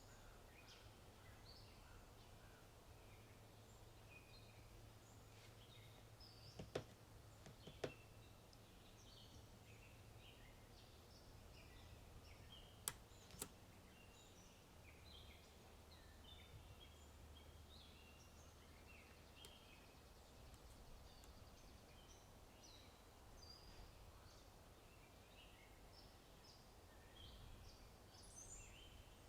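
Faint birdsong, many short chirps throughout, over a low steady background hum. A few sharp clicks stand out, two about seven seconds in and two around thirteen seconds.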